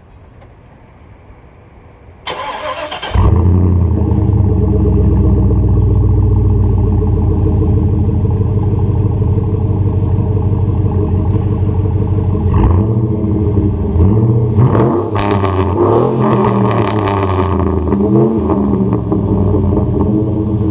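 A 2005 GMC Sierra 2500HD's 6.0 L LQ4 V8 is cranked by the starter for about a second and catches about three seconds in. It then settles into a steady idle through a single Aero Turbine 3030XL muffler. About two-thirds of the way through, the pitch briefly rises and falls, as with a quick throttle blip.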